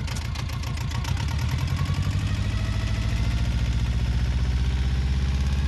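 Yanmar 2GM two-cylinder marine diesel running with a rapid, even pulse. Its revs are brought up slowly over the first couple of seconds and then held, as a test of an engine that sometimes starts knocking and shaking violently.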